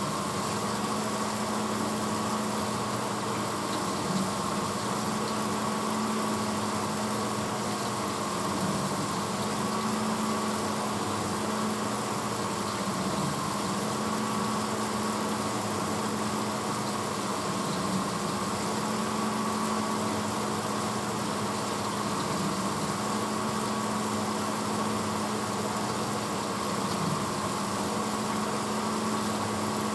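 1986 Hotpoint Potwasher dishwasher running mid-cycle: a steady motor hum with an even hiss of water spraying inside the tub.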